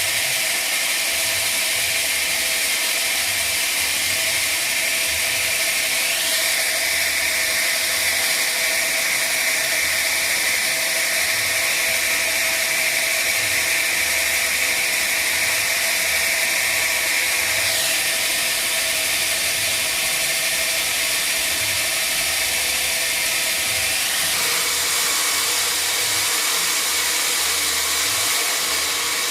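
Sawmill saw running steadily on mahogany logs. A higher whine sets in about six seconds in and stops sharply about twelve seconds later, and the sound shifts again near the end.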